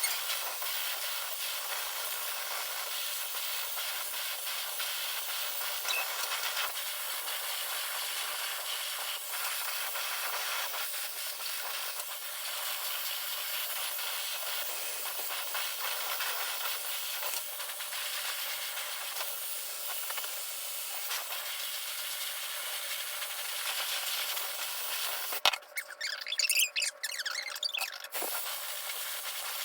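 Handheld hair dryer running, a steady high rush of blown air with no low hum. A few seconds before the end the sound turns uneven and choppy.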